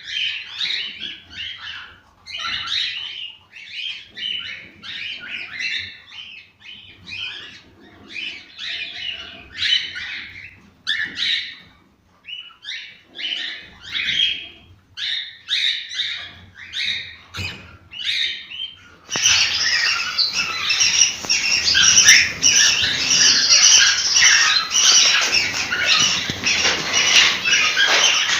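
Cockatiels chirping and whistling in short, separate phrases. About two-thirds of the way in, the sound switches suddenly to louder, continuous chatter of many birds calling over one another.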